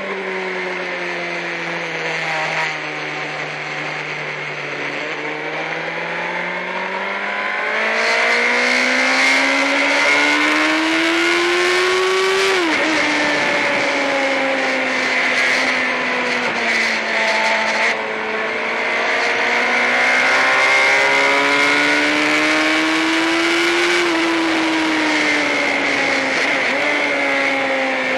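Sportbike engine at full throttle on a racetrack, its note climbing steadily, dropping sharply with an upshift about twelve seconds in, then falling off as the rider slows and rising again before easing off near the end. Heavy wind rush on the bike-mounted microphone grows as speed climbs to about 100 mph.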